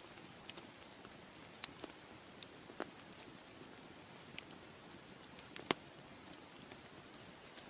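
Bonfire crackling: a soft steady hiss with scattered sharp pops and snaps. The loudest snap comes about three quarters of the way through.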